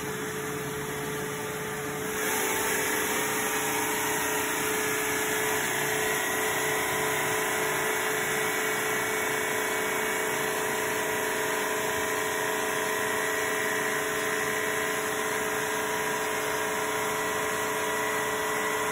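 ILIFE W90 wet-dry vacuum-mop running its self-cleaning cycle in the base: its motor and pump whirring steadily with a whine, stepping up louder about two seconds in.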